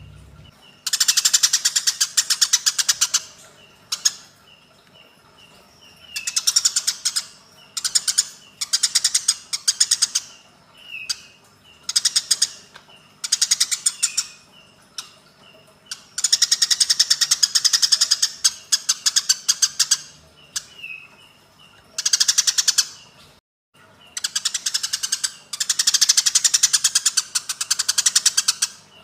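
Eurasian tree sparrows' fighting calls: bursts of rapid, harsh chattering, each lasting one to three seconds, with short single chirps between bursts.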